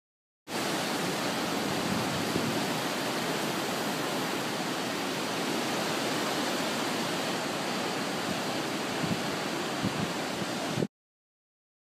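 Steady hiss of heavy hurricane rain and wind. It starts suddenly about half a second in and cuts off suddenly near the end.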